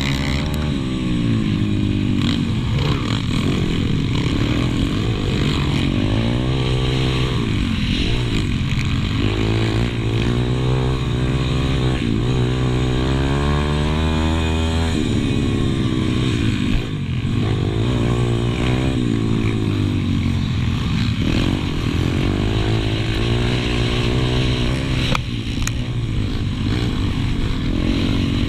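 Pit bike engine racing, heard from on board: it revs up and falls off again and again as the bike accelerates and backs off through the corners, with a longer climb in pitch from about eight to fifteen seconds in.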